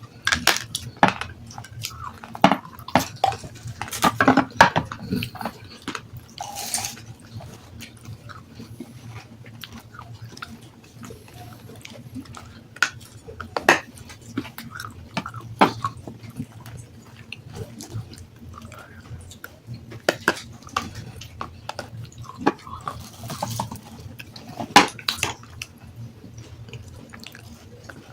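Close-miked crunching and chewing of water-soaked black sandstone: sharp, irregular crunches, dense for the first several seconds and then more spaced out, over a steady low hum.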